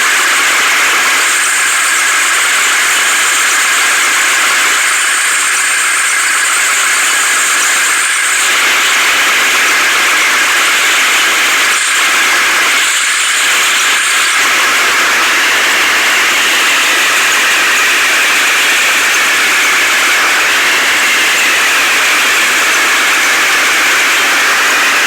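Heavy machinery running steadily, a loud constant hiss-like engine noise with a few brief dips.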